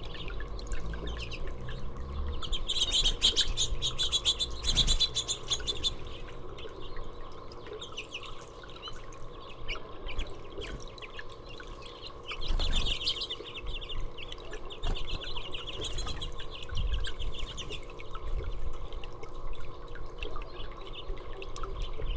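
Small songbirds chirping, with two long runs of rapid high chattering notes, one a few seconds in and another about halfway through, and scattered single chirps between them over a low rumble.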